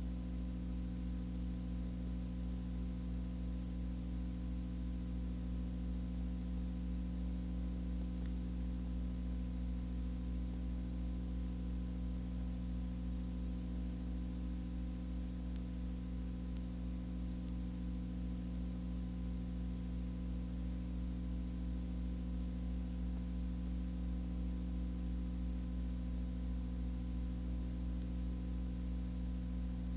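A steady low hum made of several fixed tones, under a constant hiss, unchanging throughout.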